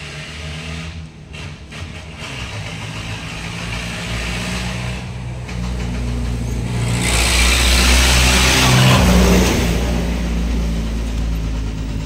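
An engine running steadily, building up to a louder rev with a rushing hiss about seven to nine seconds in, then easing back.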